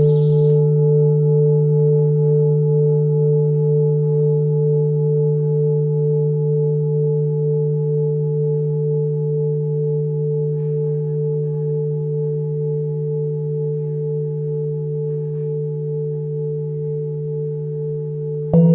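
Singing bowl ringing with a low hum and a higher overtone, wavering slightly as it slowly fades. Near the end a bowl is struck again and a new, louder ringing starts suddenly.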